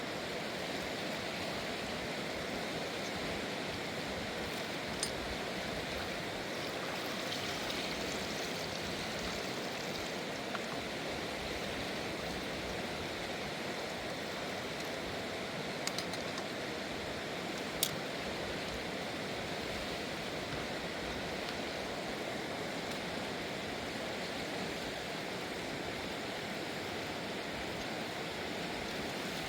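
Mountain river rushing steadily over rocks, with a few short sharp clicks.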